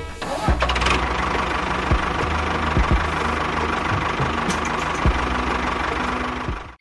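A small motor running steadily with a rattling hum, cutting off suddenly at the end.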